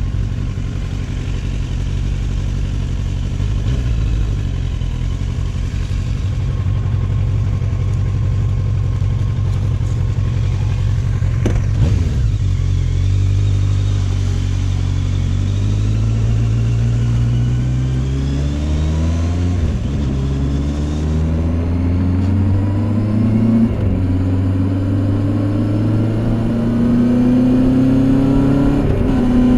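Kawasaki Z800's inline-four engine through its stock silencer, running steadily at first. About halfway through, the bike accelerates, the revs rising and dropping back at each upshift, several times.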